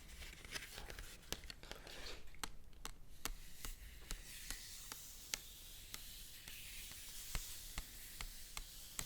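Paper being handled: rustling and crinkling with many small, sharp crackles.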